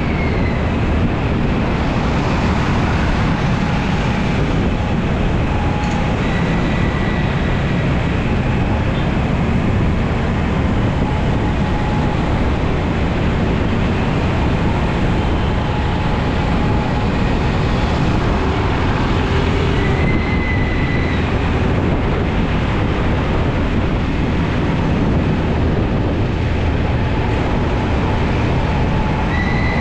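Carburetted Honda Beat scooter being ridden: steady engine and wind and road noise picked up by a camera mounted on the bike. A few brief faint high tones come through in the background.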